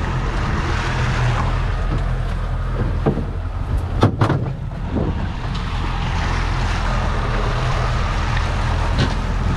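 Boat engine running steadily while trolling, with an even hiss of wind and water over it; a few sharp knocks about four seconds in.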